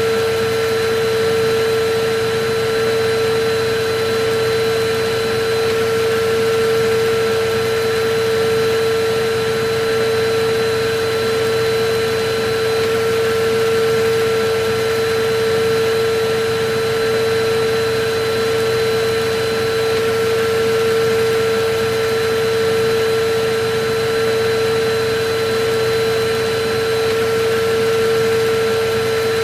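Electric vacuum cleaner running steadily: a continuous rush of air with a strong, constant motor whine.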